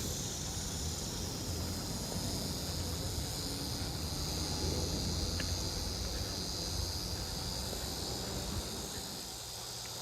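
Steady high-pitched chorus of insects trilling, with a low rumble underneath.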